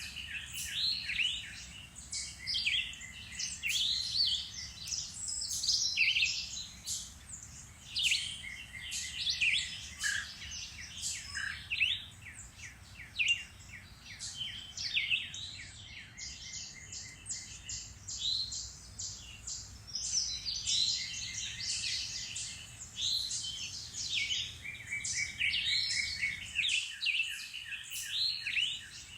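A chorus of several songbirds singing and calling at once, with overlapping chirps and quick trills of rapidly repeated notes.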